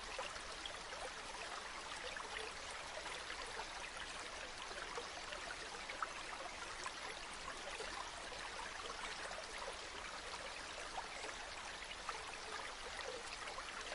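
Waterfall running steadily: an even rush of falling and splashing water with small droplet patters.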